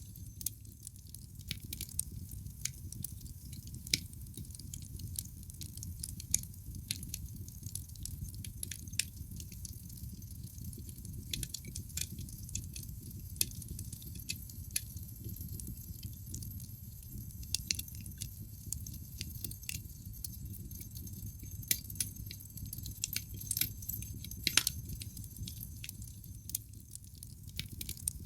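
Wood logs burning in a fireplace, crackling with frequent sharp snaps and pops over a low, steady rumble of flame, with a few louder pops scattered through.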